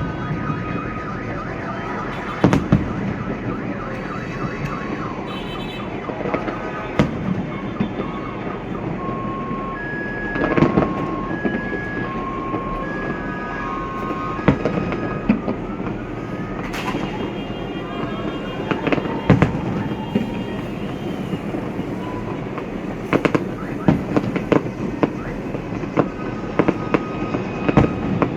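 Fireworks going off in a continuous barrage of bangs and crackles over a steady wash of crowd and street noise. In the middle, a two-note beeping alternates for several seconds, like a car alarm, and later several whistles glide up and down in pitch.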